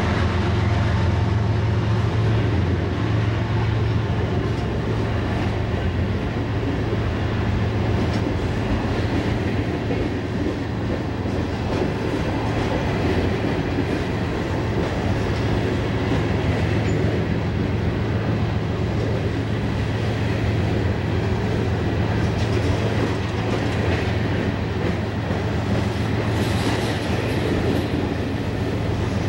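Freight train of refrigerated boxcars rolling past, a steady rumble of steel wheels on the rails.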